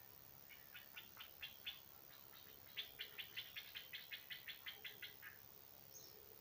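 A small animal calling in the garden: a series of short, sharp, high chirps. A few spaced chirps come first, then a quicker run of about five a second that stops about five seconds in.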